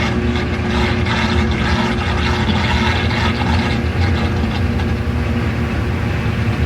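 Washing machine running: a steady motor hum under a constant noisy wash that does not change.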